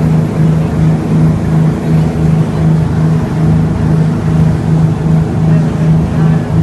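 Boat engine running steadily under way: a loud, deep drone that pulses evenly about three times a second.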